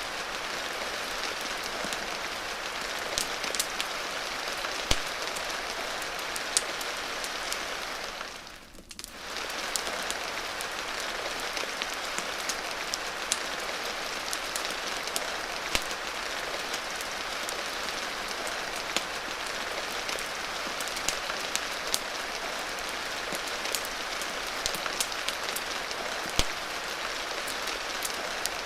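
Steady rain ambience mixed with a fireplace, with many scattered sharp ticks and crackles over the even hiss. The sound briefly fades down and back up about nine seconds in.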